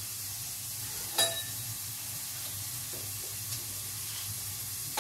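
Food sizzling steadily as it fries in a pan. About a second in there is a sharp, ringing clink of a utensil against the cookware, and a few lighter knocks follow.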